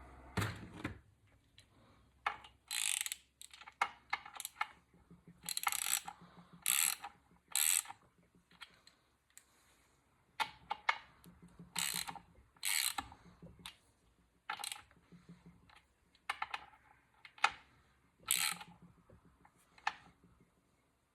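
Ratchet wrench clicking in many short, irregular strokes with brief pauses between them, running a bolt in.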